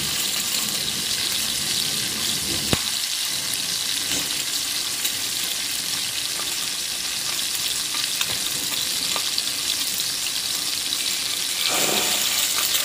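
Eggs frying in butter in a hot pan inside metal egg rings: a steady sizzle, with a sharp click about two and a half seconds in and a few fainter ticks.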